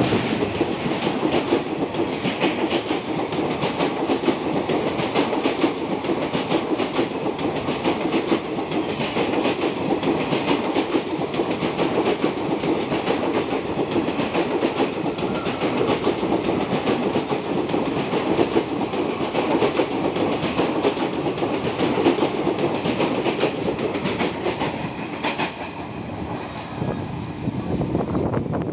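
Passenger train's coaches rolling past a platform as the train pulls out of the station: a steady rumble with rapid clickety-clack of wheels over rail joints. The sound drops away near the end.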